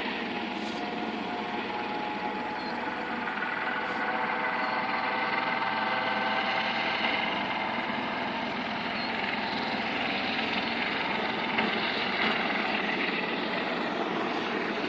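Helicopter running, a steady drone with a faint whine that grows a little louder around the middle.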